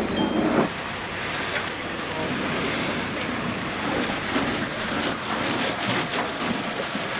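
Steady noise of a large truck engine running, with one short reversing beep right at the start.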